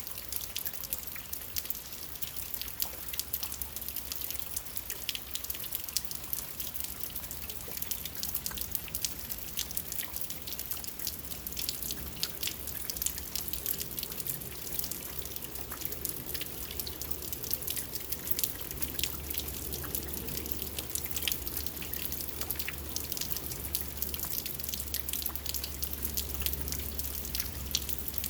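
Steady rainfall with many fine, quick drop ticks over a constant hiss, and a low rumble underneath that grows stronger about two-thirds of the way in.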